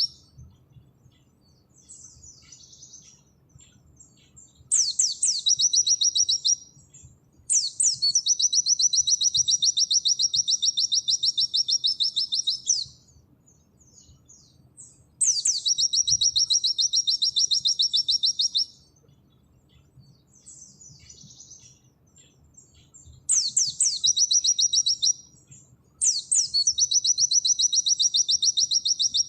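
White-eye (pleci) singing in long, fast trilling phrases of rapidly repeated high notes: five phrases, each a few seconds long, with soft twittering in the gaps. This is the rapid 'nembak' song used to tutor other cage birds.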